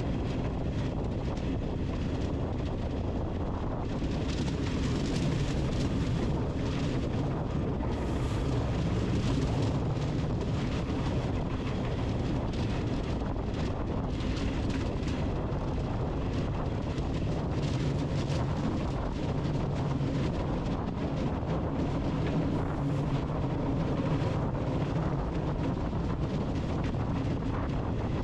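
Steady wind noise with a low, wavering hum underneath.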